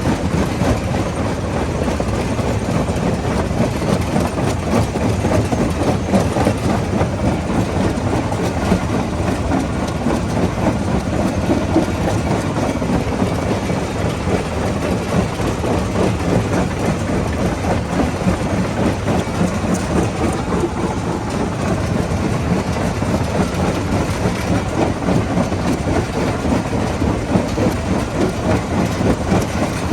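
Rock crusher running, with stones clattering and grinding as they are broken up over a dense, steady mechanical rumble.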